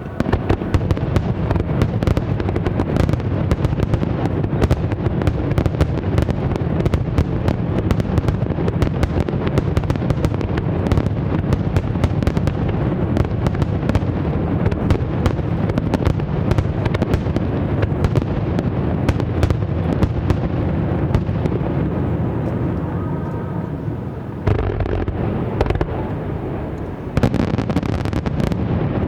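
Aerial fireworks display firing a dense barrage: overlapping booms and rapid crackling with a steady low rumble, and no pause between bursts. Near the end the bursts get abruptly louder twice.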